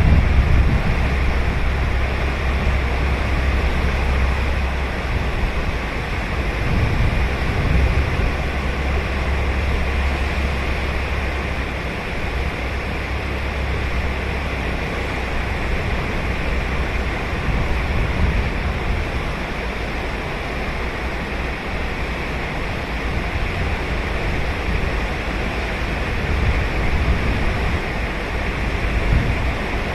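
Ocean waves breaking and washing up a sandy beach in a steady surf. For about the first twelve seconds a low rumble of wind on the microphone sits under the surf, then it drops away.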